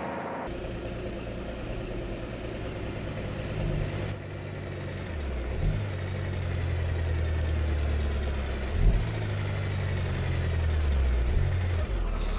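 Engine of a truck running steadily, its pitch shifting up and down a few times, with a short hiss about halfway through.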